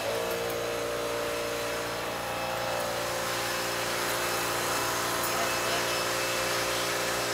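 Toyota Vios four-cylinder engine idling steadily with an even, unchanging hum.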